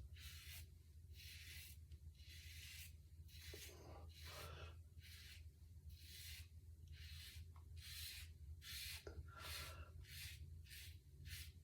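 Double-edge safety razor scraping through lathered stubble in short, faint strokes, about two a second.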